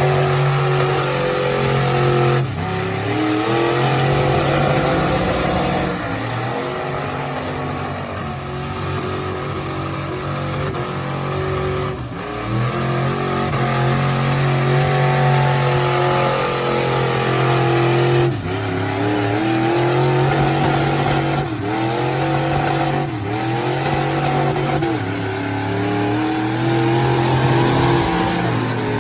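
Big-block mud truck engine at high revs under heavy pulling load. Its pitch sags and climbs back several times, with a few abrupt dips where the throttle is lifted and then reapplied.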